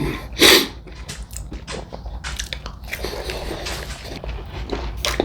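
A person takes one loud, crackly bite of crisp fried food about half a second in, then chews with many small crunches close to the microphone.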